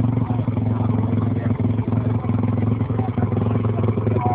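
An off-road motorbike engine running steadily at an even speed, with no revving.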